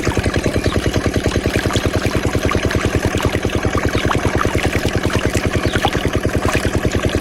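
Small engine powering a water pump, running steadily at a low, even speed with a regular pulsing beat of about a dozen firing strokes a second.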